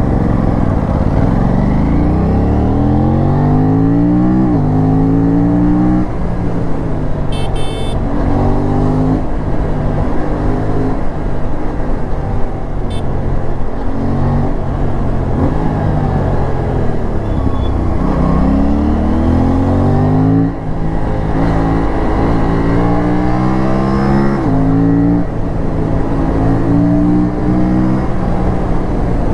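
Aprilia RS457's parallel-twin engine pulling hard under full throttle, its revs climbing and then dropping sharply again and again as it shifts up through the gears, over wind and road noise.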